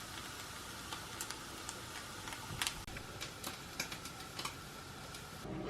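Scattered light clicks and taps, irregular and a few a second at most, over a steady hiss.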